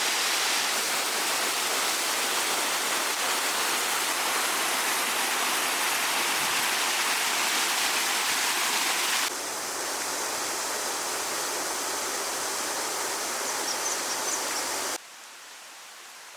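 Creek water rushing, a steady even rush. It steps down suddenly about nine seconds in and drops much quieter near the end.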